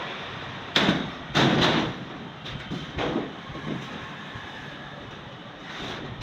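Sheet steel clattering and scraping: two loud crashes about a second in, then lighter knocks.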